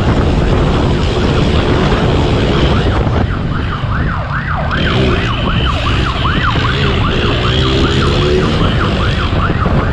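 Police siren on a fast yelp, rising and falling about three times a second, starting about three seconds in, over heavy wind and engine noise from the speeding motorcycle.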